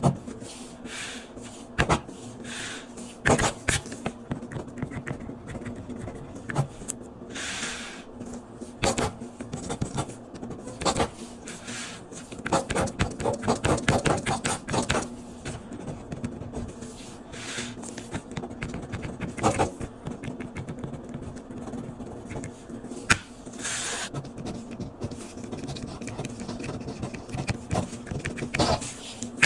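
Pen scratching across paper in irregular strokes while a test is marked, with sharp taps and clicks scattered through, over a steady low hum.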